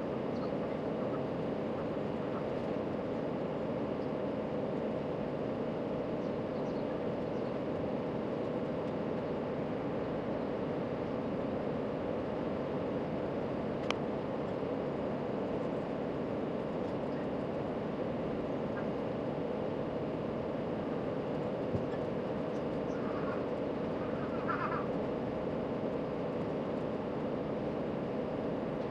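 Steady low background hum with a faint steady tone running through it; a single sharp click about halfway, and a brief faint chirping near the end.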